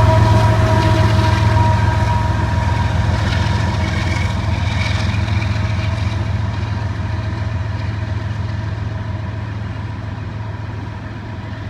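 Diesel freight locomotive engines running with a steady low drone that fades gradually as the train moves away. A few steady high tones over the drone die out in the first few seconds.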